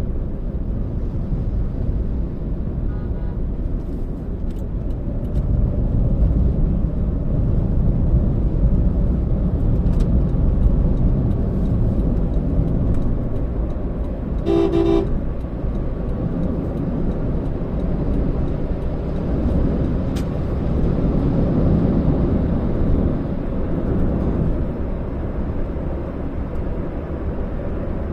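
Steady low rumble of a car driving in traffic. About halfway through, a vehicle horn sounds briefly and loudly, and a fainter horn toots about three seconds in.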